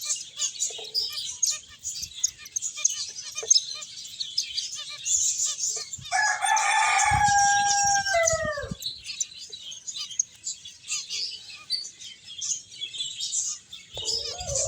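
Many small finches chirping in quick, high, overlapping chirps. About six seconds in, a much louder drawn-out call holds one pitch for about two seconds, then falls away at the end.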